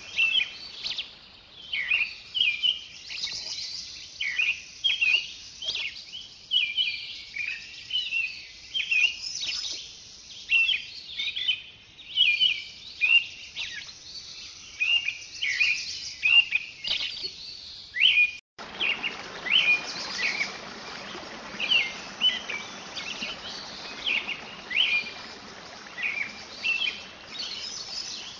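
Birds chirping over and over in short, sharp calls, over a steady high hiss. The sound breaks off for an instant about two-thirds of the way through, and the background hiss is a little different after the break.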